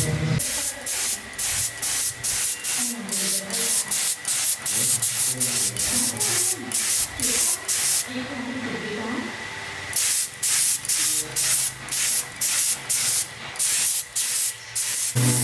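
Paint being sprayed in rapid short hissing bursts, about three a second, with one longer unbroken spray about eight seconds in.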